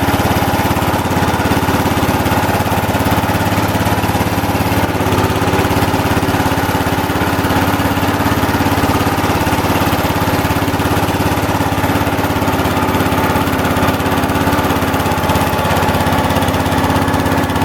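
Kohler K321 14 hp single-cylinder engine of a 1970 Wheel Horse GT-14 garden tractor running steadily, freshly rebuilt with a new piston and rings.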